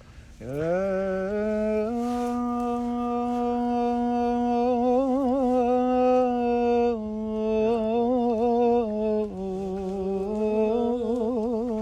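A man's solo voice intoning a maqam phrase without accompaniment: it slides up into long held notes, steps up and down in pitch, and breaks several times into quick trilling ornaments.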